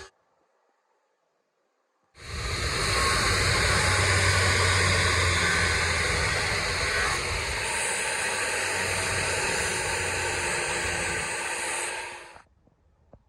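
A motor-driven workshop machine with a strong steady hiss starts suddenly about two seconds in, runs evenly with a low hum underneath, and cuts off near the end.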